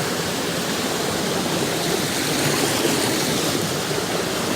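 Fast-flowing mountain creek water rushing and splashing over rocks, a steady loud rushing noise close to the microphone.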